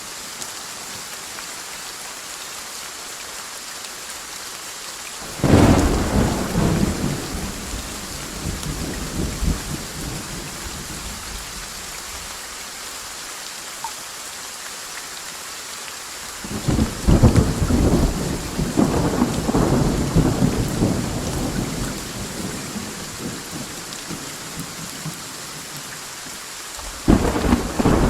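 Steady heavy rain, broken by three peals of thunder: a sudden crack about five seconds in that rolls off over several seconds, a long rolling rumble from just past the middle, and another sharp crack near the end.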